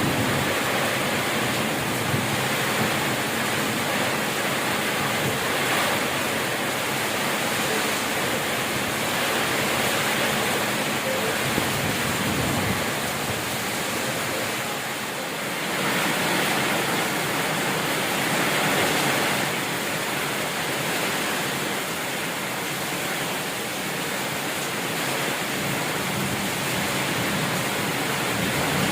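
Heavy rain pouring in gusting wind: a steady rush that swells and eases every few seconds.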